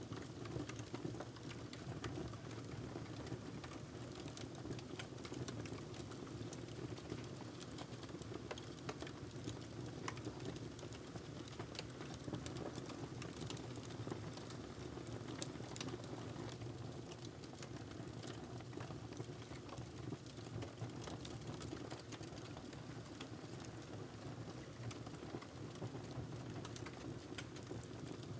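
Wood fire burning in a fireplace: many irregular crackles and pops over a steady low rumble of the flames.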